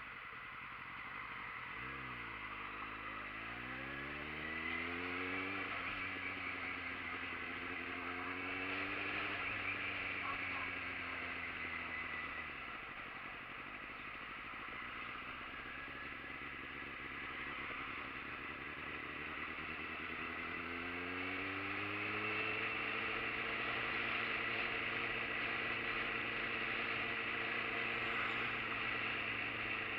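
Motorcycle engine under way: the revs climb about two seconds in, ease off around twelve seconds, and climb again near twenty seconds before holding steady, over a steady rush of wind and road noise.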